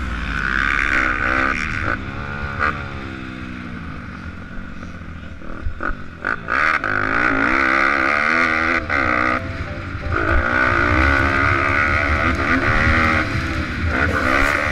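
Pit bike engines revving up and easing off repeatedly, the pitch rising and falling through the gears.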